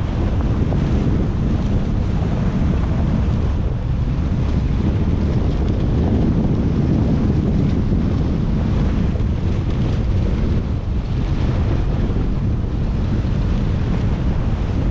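Heavy wind buffeting the microphone: a steady, loud rumble.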